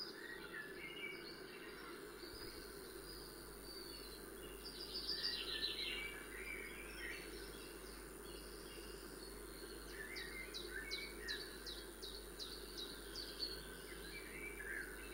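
Birds chirping, with runs of quick repeated high notes, loudest about five seconds in and again from about ten seconds, over a steady background hum.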